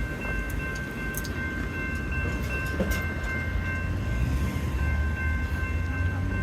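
Light rail train of Charlotte's CATS Blue Line running, a low rumble with several steady high-pitched tones over it and scattered clicks.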